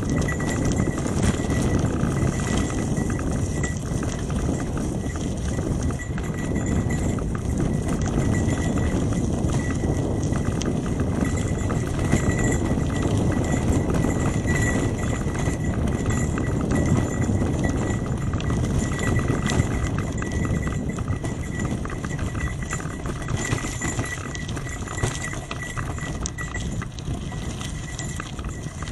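Trek 8.3 DS hybrid bicycle riding over a rough forest road: a continuous low rumble of tyres on gravel and wind on the microphone, with many small rattles and knocks from the bike over the stones.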